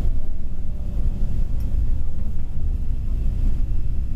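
Mercedes-Benz Travego coach on the move: a steady low engine and road rumble, with a faint whine sliding slowly down in pitch.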